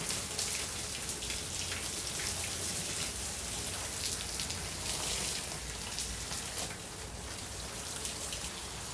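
Water spraying from a garden hose onto plants and soil: a steady hiss with a patter of drops.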